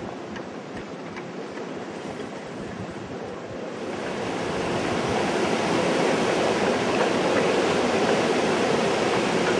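Storm wind blowing hard, with waves on the water. A stronger gust builds about four seconds in and holds.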